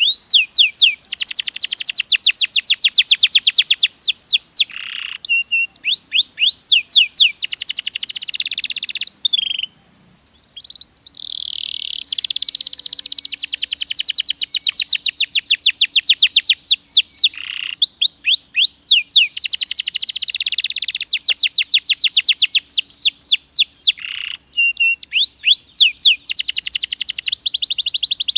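Domestic canary singing long, fast trills of rapidly repeated chirping notes, in phrases with short breaks between them and one brief pause a little before halfway.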